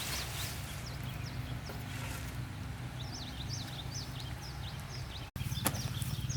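Small birds chirping rapidly in quick high twitters over a steady low background hum. The sound breaks off abruptly about five seconds in, then comes back with a couple of sharp knocks.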